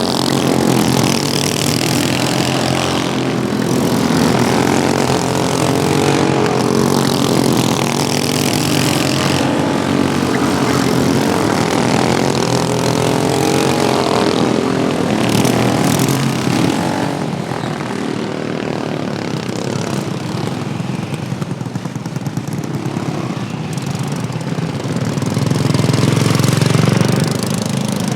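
Several modified Wheel Horse lawn tractor engines racing together, their pitch rising and falling as they speed up, slow for turns and pass by. The sound swells louder near the end.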